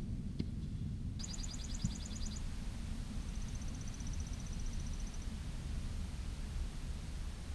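Small songbirds trilling: a fast trill of rapid, evenly repeated high notes about a second in, then a thinner, higher trill for about two seconds, over a steady low rumble.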